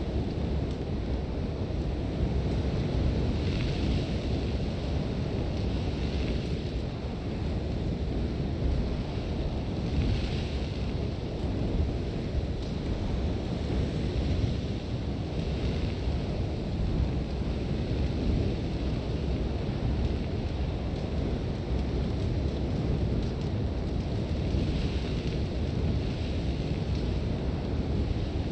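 Sandstorm wind blowing hard with a deep, steady rumble. Every few seconds a brief hiss of sand rises and fades.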